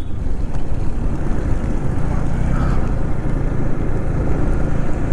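Motorcycle running at riding speed: a steady engine drone mixed with wind rumble on the microphone.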